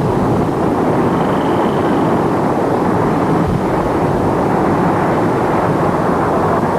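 Explosive demolition of a power station with Semtex charges: a loud, steady rumble of the building collapsing, with masonry and steel falling, right after the blast.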